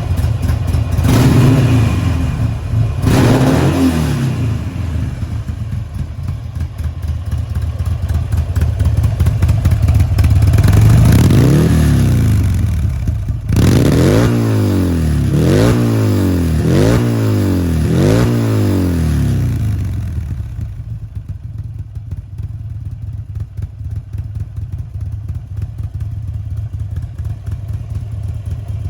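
Buell motorcycle's V-twin engine through an aftermarket Babyface carbon-and-aluminium muffler, revved in blips: two short ones at the start, a longer rise and fall near the middle, then a run of five quick blips, after which it settles to a steady idle for the last third.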